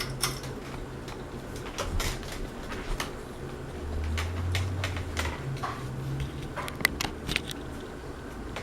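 Harbor Breeze Aristocrat ceiling fan running on high, its motor giving a steady low hum, with scattered sharp clicks and ticks, a few louder ones near the end.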